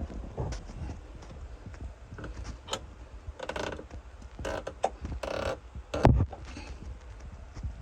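Tools and metal equipment being handled: scattered clicks and knocks, a few short bursts of hiss around the middle, and one heavy thump about six seconds in.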